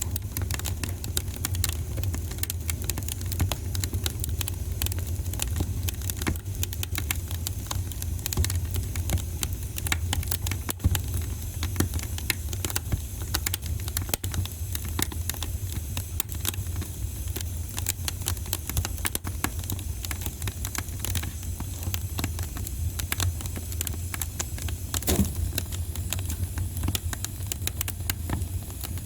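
Wood fire burning in a fireplace, crackling and popping irregularly over a steady low rumble, with a couple of louder pops.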